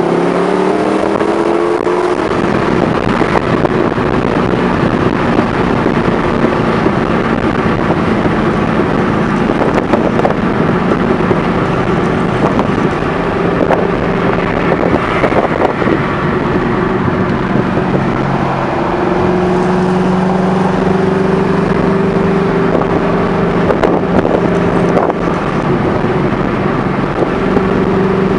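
Twin-turbocharged Ford GT V8 running while the car is driven, its engine note falling in the first couple of seconds and then holding fairly steady, over constant road noise.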